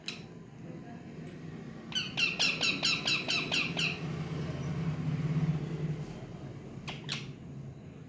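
A parrot giving a rapid run of about ten short, sharp squawks, roughly five a second, about two seconds in. Single sharp calls come at the very start and again near the end.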